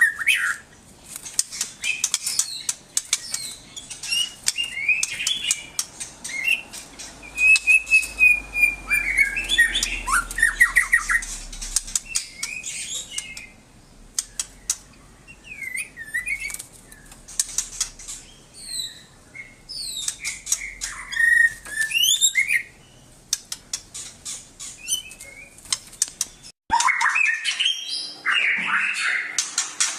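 A songbird singing a varied stream of quick chirps and whistled glides mixed with many sharp clicks. The song breaks off abruptly about three-quarters of the way through and resumes louder and denser.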